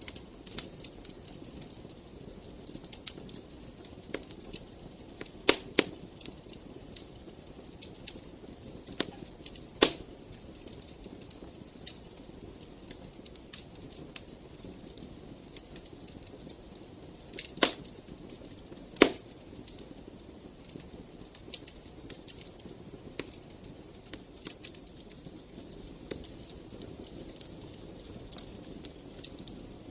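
Wood fire crackling, with a steady low rush of flames under scattered small crackles and a few sharp, louder pops.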